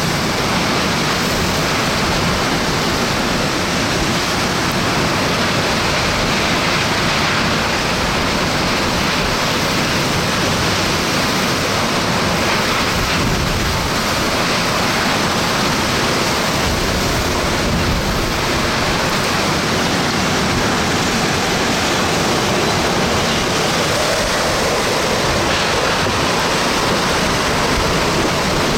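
Hurricane-force wind and driving rain, a loud, steady rushing noise that hardly varies.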